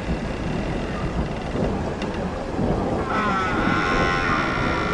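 Horror sound effect: a low rumbling noise, joined about three seconds in by several wavering, warbling high tones.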